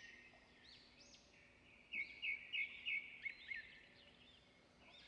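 Birds chirping and calling, several at once, with a run of louder, quick chirps about two seconds in.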